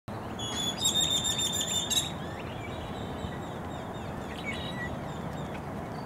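Small birds calling: a high, rapidly pulsing trill for about a second and a half near the start, then scattered faint chirps, over a steady background hiss.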